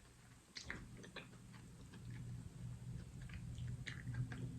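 Faint close-miked chewing of boiled seafood, scattered soft wet clicks and smacks over a low steady hum that swells about halfway through.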